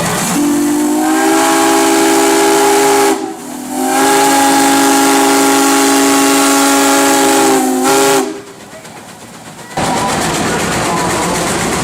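Steam whistle of a 1911 Case 110 steam traction engine blown twice over hissing steam. The first blast lasts about three seconds and its pitch rises slightly as it opens. After a brief break comes a longer blast of about four and a half seconds, which cuts off sharply. The steady hiss returns near the end.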